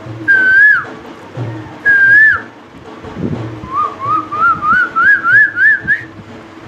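A man whistling an imitation of an Asian koel's call: two drawn-out whistles that rise and then drop, then a run of about eight short notes climbing higher and higher in pitch, like the koel's escalating call.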